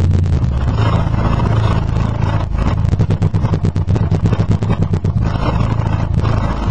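Four Philips 4.2 car-audio subwoofers, mounted free-air, playing a loud, deep bass test tone at high excursion, with a rapid rattling buzz over it.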